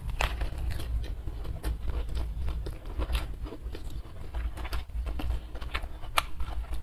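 Close-up chewing of a mouthful of raw lettuce wrapped around rice and sambal, a steady run of wet, crisp crunches and mouth clicks. The sharpest crunch comes near the end.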